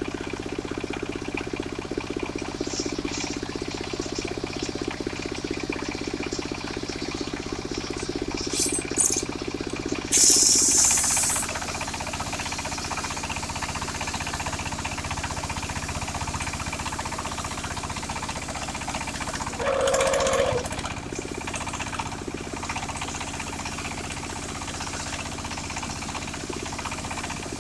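Engine-driven mobile circular sawmill running with a rapid, steady pulse. About ten seconds in a brief loud high hiss breaks in, after which the sound turns to a broader steady noise; there is another short burst near twenty seconds.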